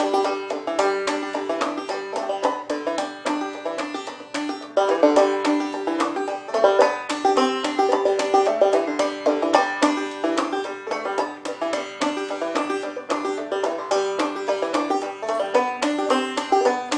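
Fast banjo music with rapid picked notes, in a bluegrass style.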